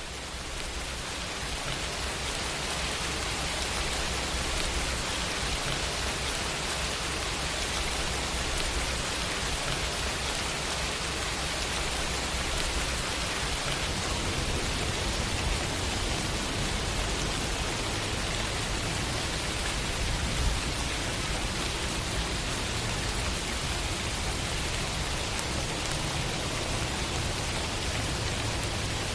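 Steady rain falling on hard surfaces, a dense even hiss with a low rumble underneath, fading in over the first second or two. There is one brief louder knock about two-thirds of the way through.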